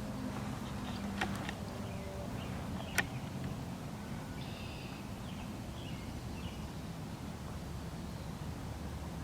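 Outdoor ambience: a steady low rumble with faint bird chirps partway through, and a few sharp clicks, the loudest about three seconds in.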